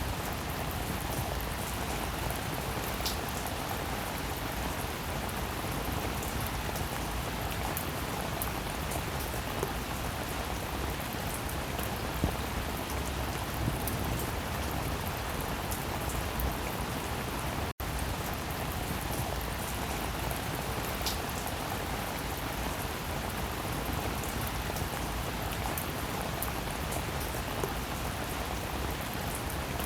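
Steady rainfall with scattered louder drops ticking through the even hiss. The sound cuts out for an instant a little past halfway, then carries on unchanged.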